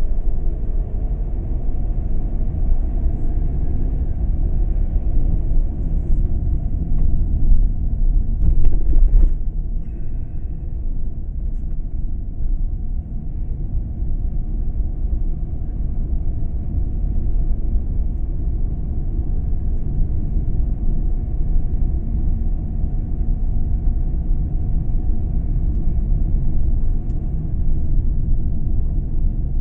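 A car driving, heard as a steady low road and engine rumble, with a brief knock about nine seconds in.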